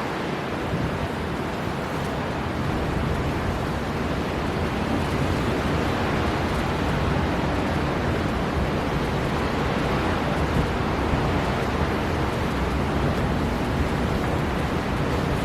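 Storm-force wind blowing hard off the sea with heavy surf, a dense, steady rush of noise with a deep low rumble underneath.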